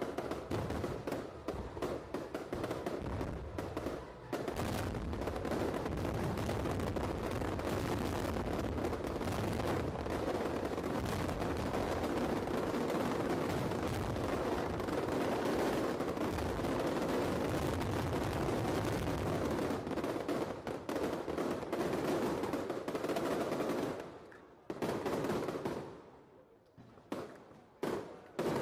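Fireworks going off in a dense, rapid crackling barrage of overlapping bangs, which thins out about 24 seconds in to a few scattered separate bangs.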